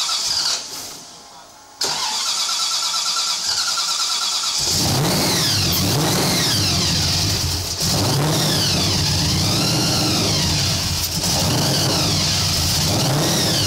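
Supercharged stroker Holden V8 with a TBS 8/71 blower being cranked over. It catches about four and a half seconds in, then runs with the throttle blipped, the pitch rising and falling again and again.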